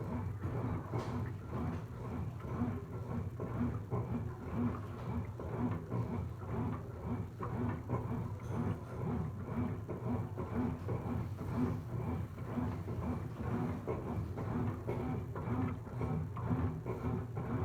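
Brastemp washing machine running: a steady low hum with a regular pulse about every three-quarters of a second.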